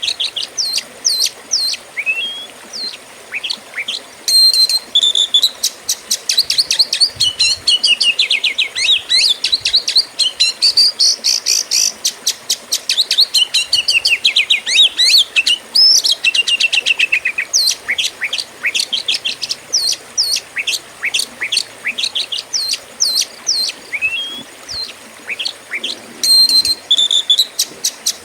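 Oriental magpie-robin (kacer) singing without pause: a fast, varied song of sharp chirps, quick downward-sweeping whistles and rapid trills.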